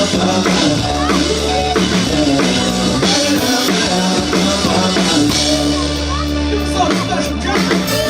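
Amplified live band playing a rock-style song, with drum kit and bass under held melody notes.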